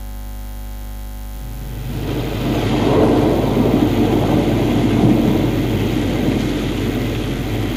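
Rain and thunder sound effect opening the song: a rumbling wash of storm noise that swells up over the first few seconds and then holds, over a steady low hum.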